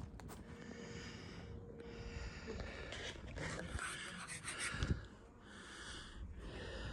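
A hiker breathing hard during a Class 3 rock scramble uphill: a series of heavy, hissing breaths close to the microphone.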